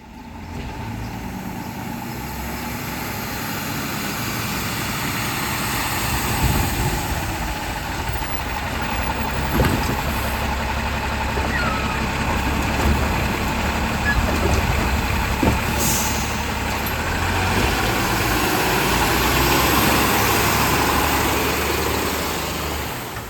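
Autocar WX64 garbage truck with a Heil Rapid Rail automated side loader running steadily, with a few clanks and a short hiss of air about two-thirds of the way through.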